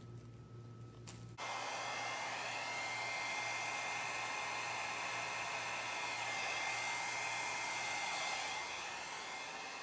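Hair dryer switched on about a second and a half in, then running steadily with a thin high whine over the rush of air, blowing fluid acrylic paint across a Dutch pour.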